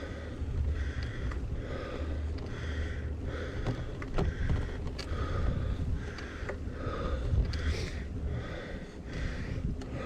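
Wind rumble on a GoPro microphone and a gravel bike rolling over a rough track, with scattered sharp clicks and a softer sound repeating about every two-thirds of a second.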